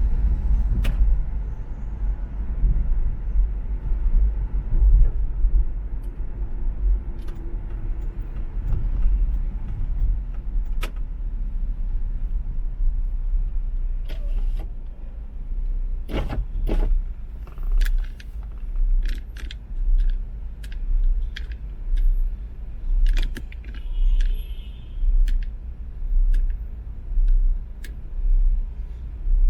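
Car driving along an expressway: steady low road and engine rumble, with scattered small clicks and rattles. From about halfway through, a low pulsing throb about once a second joins in.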